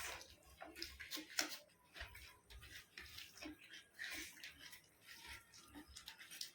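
Faint wet eating sounds: scattered smacks and clicks of chewing and of rice and curry being eaten by hand.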